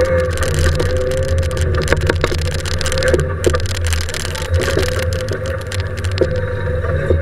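Fiat rally car's engine running hard at fairly steady revs, heard from inside the stripped cabin, with road noise and scattered sharp knocks and clicks.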